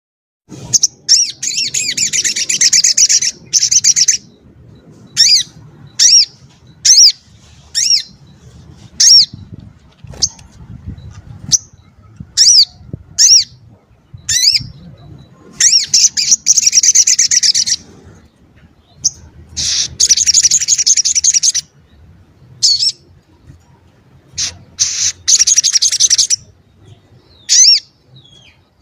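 A sogok ontong (sogon ontong) songbird singing: loud, rapid, high-pitched chattering trills of about two seconds each, four times, with short sharp chirps between them.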